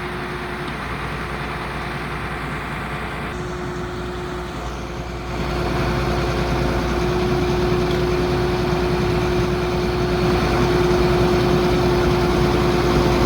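A heavy vehicle engine running steadily, with a constant whine over it; it gets louder about five seconds in.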